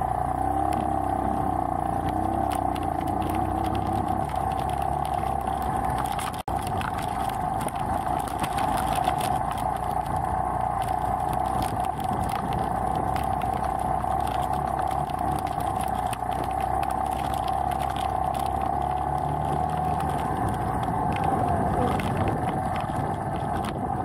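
Beta Alp trail motorcycle's single-cylinder engine running steadily as it pulls up a loose, rocky climb.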